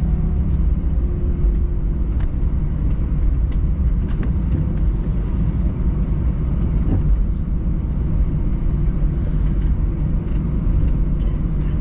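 Airbus A320 cabin noise on the ground just after landing: a steady low rumble from the wheels rolling and the engines, with a few light cabin rattles. A steady engine tone fades out in the first couple of seconds.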